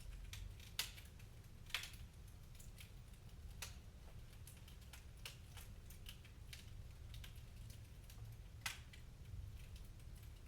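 Wood fire crackling: irregular sharp snaps and pops, with three louder ones about a second in, just before two seconds and near nine seconds, over a steady low rumble.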